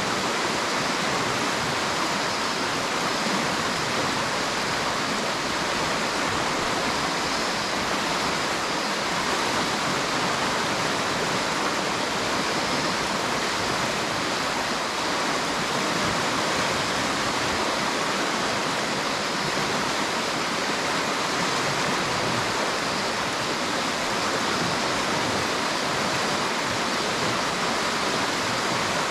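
River water flowing with a steady, unbroken rushing.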